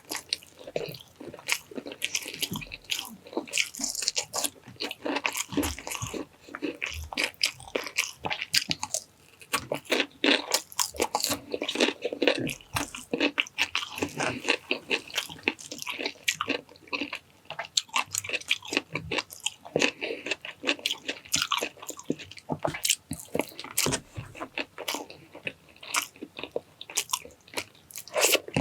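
Close-miked eating sounds: crunching bites and wet chewing of braised pork cheek, rice and pickles, in an irregular run of mouth clicks and smacks.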